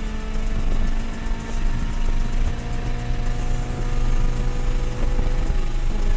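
FA20 flat-four of an FT86-platform (BRZ/FR-S) track car pulling at full throttle in fourth gear, heard from inside the cabin, its revs climbing slowly as the car gains speed past 100 mph. Near the end the note breaks off for an upshift to fifth.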